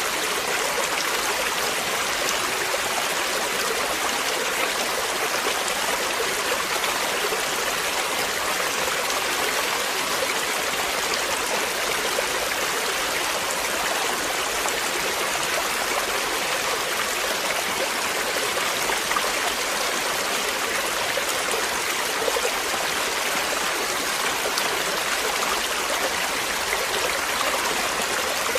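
Running water: a steady, unbroken rush, like a stream flowing over stones, with no pauses or changes.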